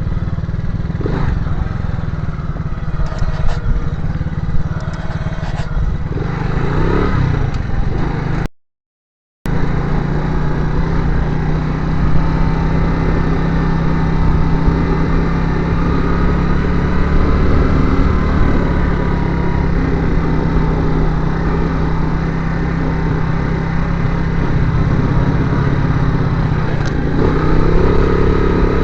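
Motorcycle engine running steadily while riding. The sound cuts out completely for about a second, about eight and a half seconds in.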